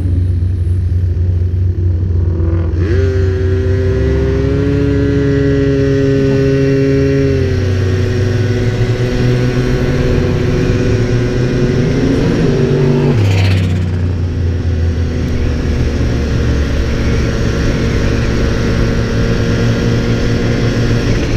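Vehicle engines running with a steady low rumble. A held pitched tone sounds from about three to seven seconds in, the pitch rises briefly near twelve seconds, and a short sharp sound follows just after.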